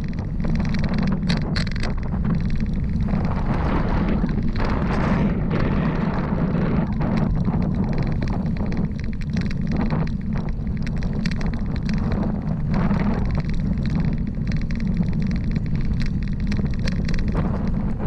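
Wind buffeting the microphone of a camera on a moving bicycle: a steady low rumble with scattered light clicks and rattles.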